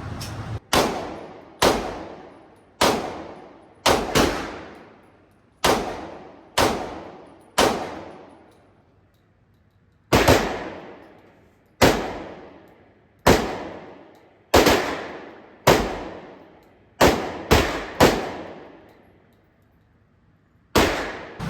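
AR-15 rifle in 5.56 fired shot by shot in semi-automatic, about eighteen rounds at an uneven pace of roughly one a second with a few quick doubles and two short pauses. Each shot trails off in a reverberant echo from the range walls.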